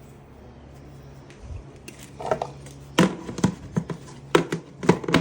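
Plastic scoop and feed buckets knocking and clattering irregularly as powdered and pelleted supplements are scooped into horse feed buckets. The knocks start about two to three seconds in, over a low steady hum.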